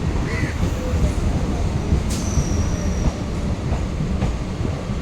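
Train running on the rails with a steady low rumble, a sharp clack about two seconds in followed by a brief high wheel squeal, and a few fainter knocks near the end.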